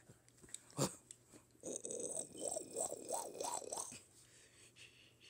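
A puppy play-biting and chewing on a hand, giving a quick run of about five short rising grumbles over a couple of seconds. A sharp click comes just under a second in.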